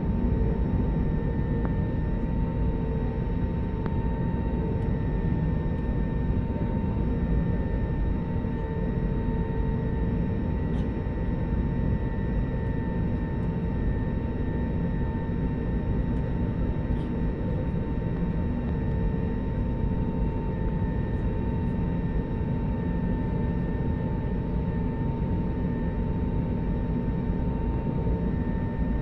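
Airliner cabin noise in flight: a steady rush of jet engine and airflow with a constant whine, unchanging throughout.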